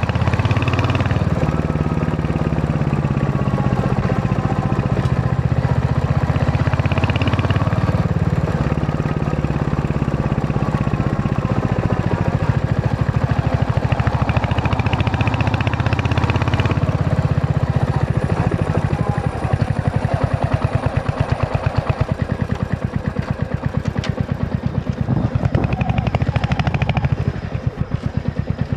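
Royal Enfield Hunter 350's single-cylinder engine and exhaust running on the move. From about two-thirds of the way in, the engine note slows into separate, evenly spaced thumps.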